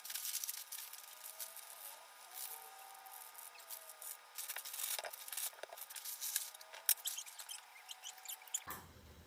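Faint scattered clicks and rustles over a light hiss, with a few faint squeaky glides: handling noises while instant ramen is cooked.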